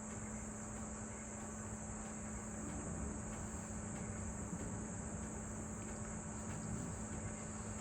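Steady high-pitched whine over a low, even hum and background hiss, unchanging throughout.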